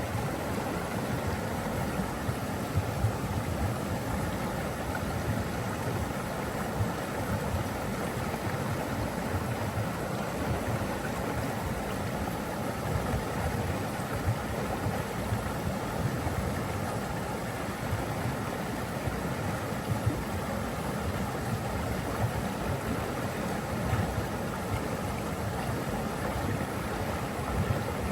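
Steady rushing water, a deep, even rush with no pauses or changes.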